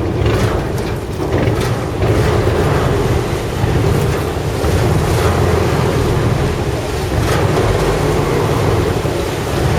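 River boat's engine running with a steady low drone, under the rush of water and wind buffeting the microphone.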